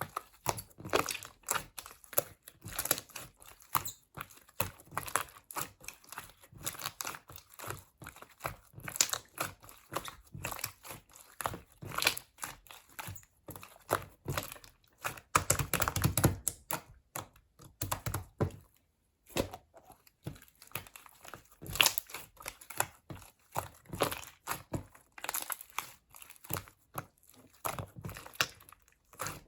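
Irregular quick clicks and taps with some crinkling, dropping away briefly about two-thirds of the way through.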